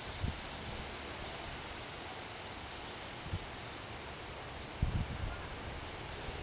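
Cicada singing: a steady, high-pitched insect buzz, with a few dull low thumps.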